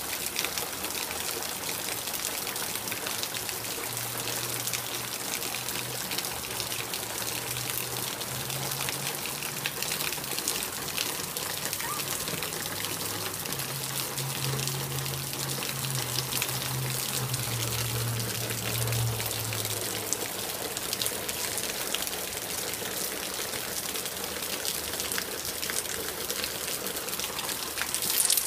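Heavy rain falling steadily: a constant hiss dotted with many small drop ticks. A low hum sounds underneath from about four seconds in until about twenty seconds in.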